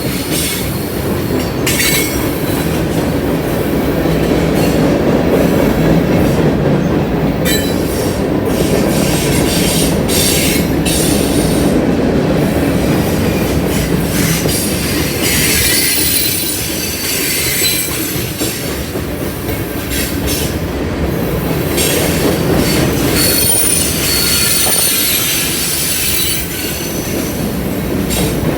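Freight cars of a mixed freight train rolling past: steel wheels running on the rails with a steady rumble and scattered clicks over the rail joints. A thin, high wheel squeal comes and goes, strongest a little after the middle and again near the end.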